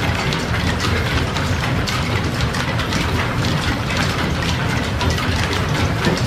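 Belt-driven shop machinery running steadily with a low rumble and constant light clatter, typical of an old line-shaft machine shop cutting a gear tooth.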